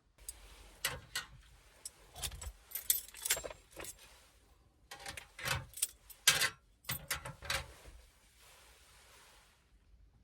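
Irregular clicks, clinks and light rattles of small hard objects being handled, in two busy clusters in the middle, over a faint hiss.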